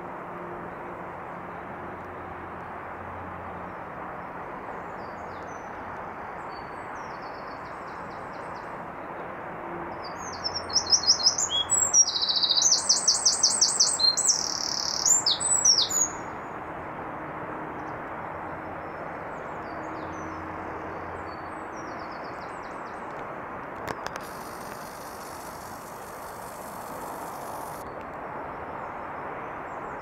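A songbird singing in the trees. About ten seconds in it gives a loud burst of rapid, high trilled notes lasting about five seconds, with quieter short phrases before and after, over a steady background noise.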